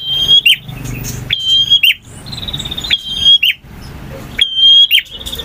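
Male prenjak, a prinia, singing a loud high phrase about four times. Each phrase is a sharp upward stroke, then a held whistle with a fast trill over it, ending in quick downward flicks.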